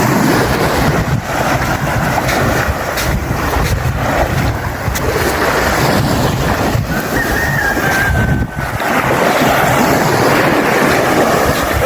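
Surf washing on the beach, with wind buffeting the microphone.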